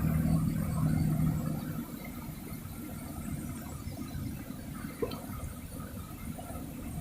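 A motor vehicle's engine hum fades over the first two seconds, leaving a steady wash of water and traffic noise from a flooded street, with one short click about five seconds in.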